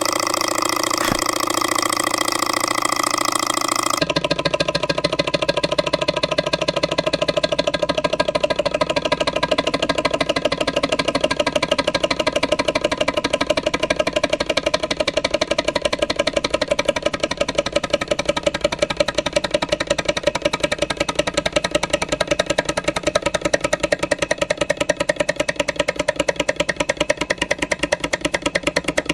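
Jabama A500 model hot air Stirling engine running with a steady mechanical sound. About four seconds in, the sound changes abruptly to a fast, even, rhythmic clatter that keeps up without a break.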